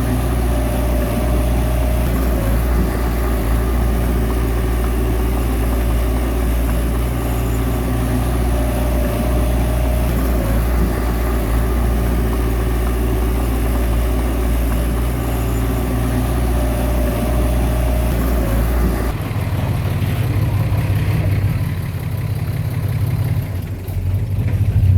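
Heavy diesel earthmoving machinery running steadily, with a brief whine that comes back about every eight seconds. About 19 s in, the sound switches abruptly to a different engine note.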